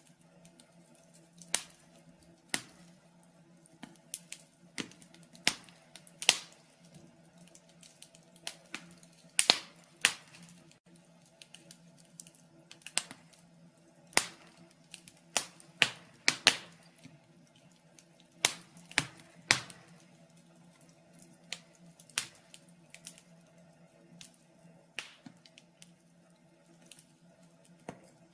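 Fire crackling in a fireplace: irregular sharp pops and snaps, about one or two a second, some much louder than others, over a faint steady hum.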